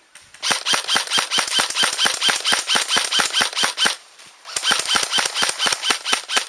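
Airsoft gun firing two long strings of rapid shots, about seven a second, each with a short high ping. The strings are split by a half-second pause about four seconds in.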